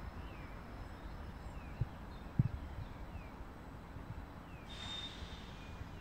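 Double-deck electric multiple unit (BR 4110 Intercity KISS) approaching slowly over station points: a faint low rumble with a few low knocks as the wheels cross the rail joints and switches. About five seconds in, a short hiss with a high whistling tone, typical of brake or wheel-flange squeal.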